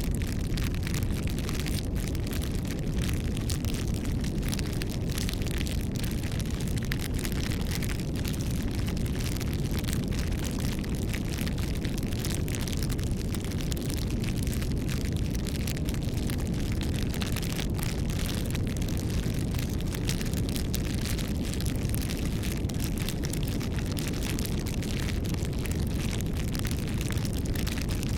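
A wood fire burning steadily, with a low rumble of flame and frequent small crackles and pops.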